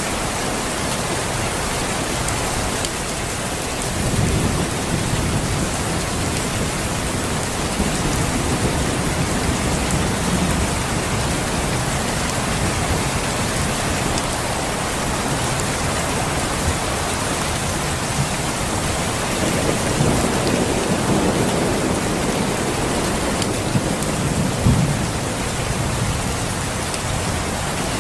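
Steady rain with rolling thunder: low rumbles swell a few seconds in, again midway and later, with a sharper clap near the end.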